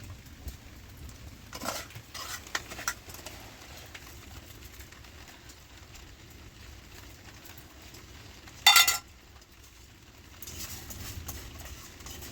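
Household clatter: scattered light clicks and clinks in the first few seconds, then one loud, short metallic clatter with a ringing edge about nine seconds in.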